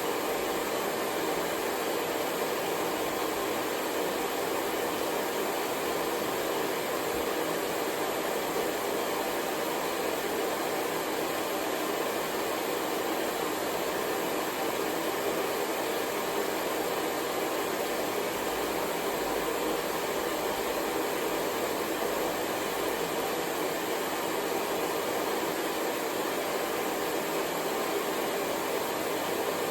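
Hair dryer running steadily: an even, unchanging rush of blown air.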